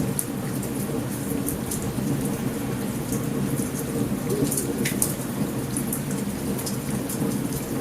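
Steady heavy rain with a low, continuous rumble of thunder, and short sharp crackles and pops from a campfire scattered throughout.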